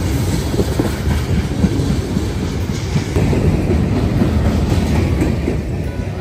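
Train rolling past, a steady low rumble with the wheels clattering irregularly over the rails.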